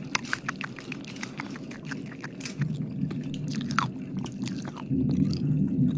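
Wet mouth sounds close to the microphone: many quick lip and tongue clicks and smacks, with a louder low muffled rumble about three seconds in and again near the end.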